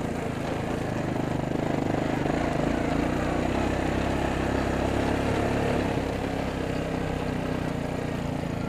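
Four-wheeler (ATV) engine running steadily as it is ridden, a little louder for a few seconds in the middle.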